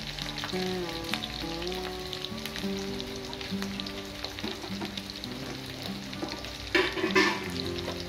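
Small shallots and curry leaves sizzling and crackling in hot sesame oil in a kadai, with background music playing. A short, louder burst of sizzle comes near the end.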